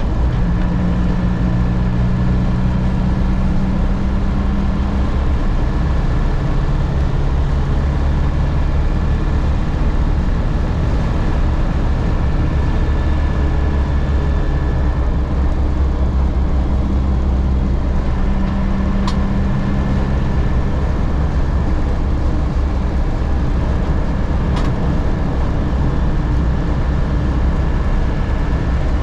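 1998 Land Rover Defender driving, its engine and road noise heard from inside the cabin as a steady low drone whose pitch shifts now and then as the revs change. Two faint ticks come in the second half.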